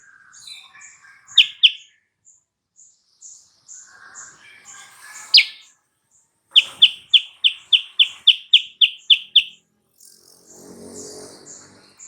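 Silver-eared mesia singing: scattered chirps, then a quick run of about a dozen loud, evenly spaced whistled notes a little past the middle, over a soft high chip repeated a few times a second.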